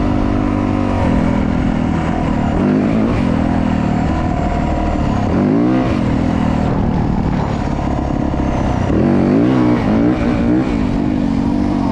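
Small dirt bike engine running while being ridden, its revs climbing and dropping twice, once around the middle and again near the end.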